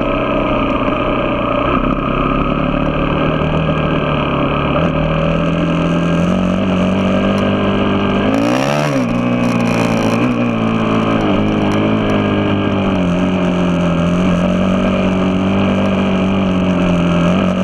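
A vehicle engine running steadily under way. Its pitch rises and falls sharply about halfway through, with a burst of hiss at the same moment, then wavers a little as the revs change.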